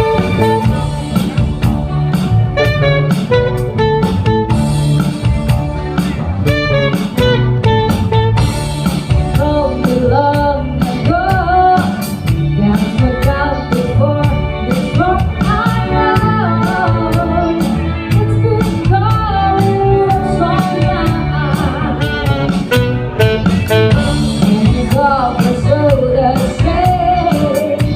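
Live band playing a rock song with drum kit, guitar and bass, and a singer's voice carrying the melody over a steady beat.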